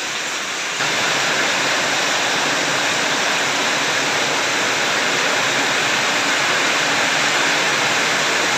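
Heavy rain pouring down, a steady hiss of rain hitting the ground and standing puddles; it gets louder about a second in.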